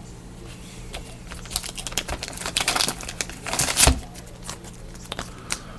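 Plastic trading-card wrappers and sleeves crinkling as football cards are handled, in a run of short crackles and rustles that grow busier about a second and a half in.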